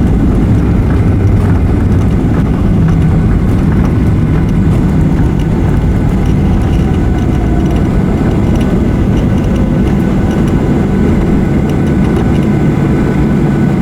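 Boeing 737-800 jet engine noise during landing, a steady loud rumble with a faint tone sliding down in pitch midway. Strong wind buffets the microphone throughout.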